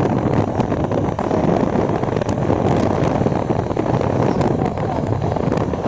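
Vehicle driving along a road: steady engine and road noise with wind buffeting the microphone.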